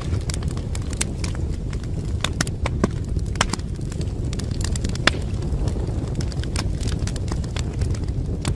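Wood fire burning in a fireplace: a steady low rumble with irregular sharp crackles and pops, a few louder snaps among them.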